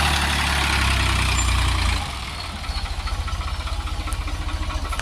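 Tractor engine running steadily, then throttling back about two seconds in to a lower, pulsing idle in which the separate firing beats can be heard.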